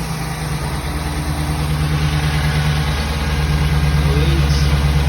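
5.7 Hemi V8 idling steadily just after being started following a fresh oil change, running while the drain plug and new filter are checked for leaks.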